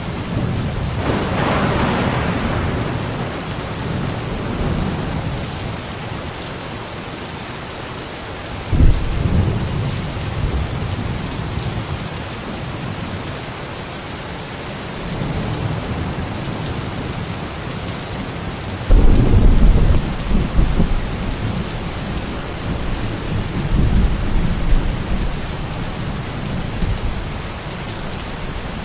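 Steady rain with thunder: low rolling rumbles swell up about nine seconds in and again, loudest, about nineteen seconds in, over the even hiss of rainfall.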